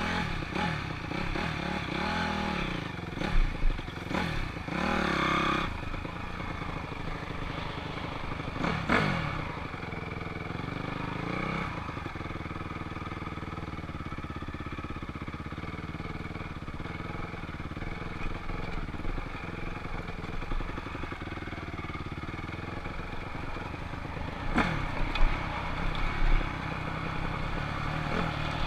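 Honda CRF250R dirt bike's single-cylinder four-stroke engine running under a rider, its pitch rising and falling with the throttle in the first several seconds and then running steadier. A few sharp knocks and clatter come about 25 seconds in.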